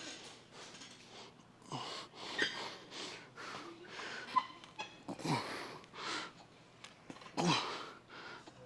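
A man breathing hard through a set of weight-training reps: forceful exhales, several of them turning into strained grunts that fall in pitch.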